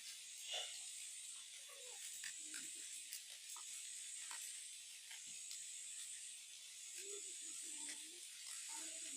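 High-pitched buzzing insect chorus, swelling and fading in pulses of about a second, with faint scattered clicks and rustles.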